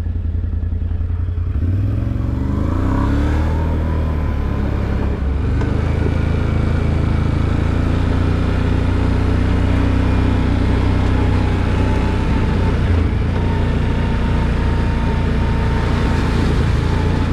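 Off-road vehicle's engine running as it drives along a dirt trail, revving up about two seconds in and then holding steady.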